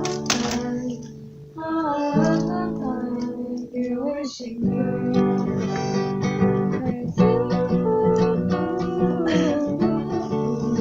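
Acoustic guitar strummed, playing the chords of a song, with a brief lull about a second and a half in.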